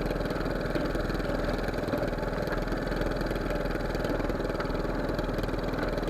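Fishing boat engine running steadily with a fast, even beat.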